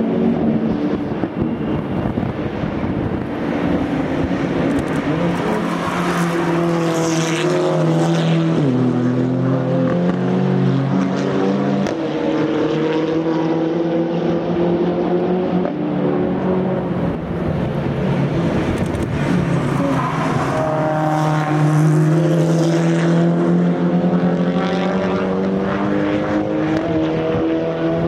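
Race cars with open exhausts passing at speed, several engines overlapping, revving up and changing gear with sudden pitch drops, the note sweeping down as each car goes by.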